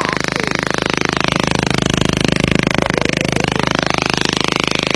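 Small motorcycle engine, converted for wading through flood water with a raised carburettor, fuel tank and exhaust, running steadily with a rapid, even putter.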